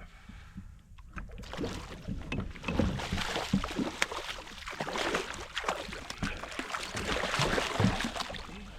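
Water splashing and disturbed, with many short clicks and knocks against a kayak, as a large hooked fish is fought close beside the boat. It grows louder after about a second in.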